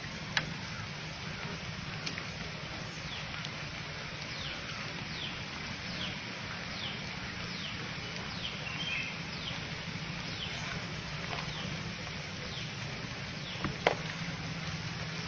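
Steady rushing noise of floodwater, with short falling chirps from a small animal repeating every half second or so through the middle, and two sharp clicks, one just after the start and one near the end.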